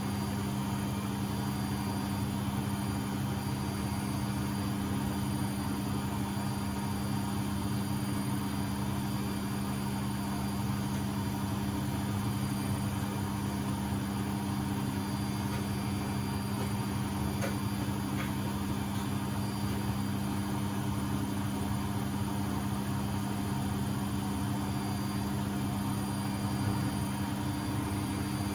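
Beko WMB71642W washing machine drum spinning at a steady 1000 rpm in its final spin, a constant low hum with fainter steady high whines.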